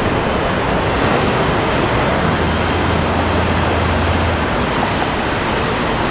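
Cars of a long intermodal freight train rolling past: a steady, loud rushing noise, with a low hum coming in about two seconds in and dropping away past the four-second mark.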